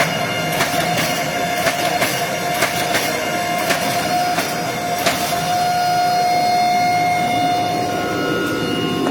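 Hydraulic forging press running, its pump giving a steady whine over constant machine noise, with scattered sharp metallic clicks and knocks during the first half as the hot blade is pressed between the dies.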